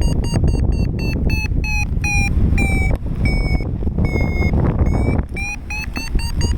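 A paragliding variometer beeping its climb tone over heavy wind rush on the microphone. The beeps are fast and high at first, slow and lower-pitched in the middle, then quicken and rise again near the end: the glider is climbing in a thermal whose lift weakens and then strengthens.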